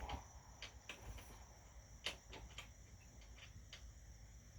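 Near silence: quiet room tone with a steady, faint high-pitched whine and a few soft scattered clicks.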